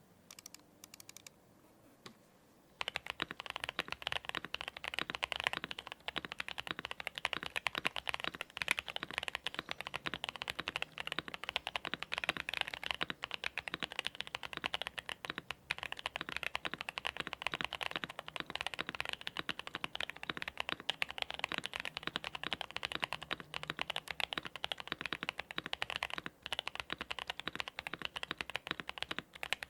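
Continuous typing on a Novelkeys NK65 Entry Edition mechanical keyboard with lubed Boba U4T tactile switches, Domikey Dolch keycaps and a foam-dampened polycarbonate plate. After a quiet start, the rapid keystrokes begin about three seconds in.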